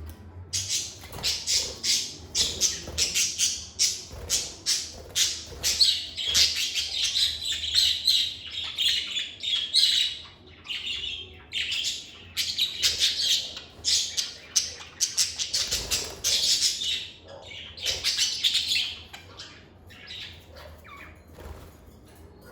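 Lovebirds chattering in a dense run of rapid, high-pitched chirps. The calls thin out and fade near the end.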